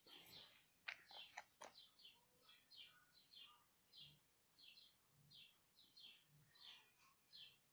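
Faint bird chirping: short high chirps repeated about twice a second, with a few sharp clicks between about one and two seconds in.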